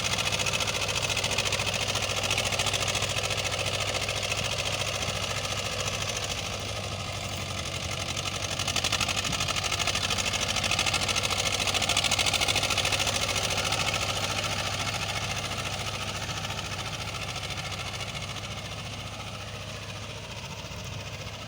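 HMT 2511 tractor's diesel engine running steadily, swelling louder in the middle and easing off toward the end.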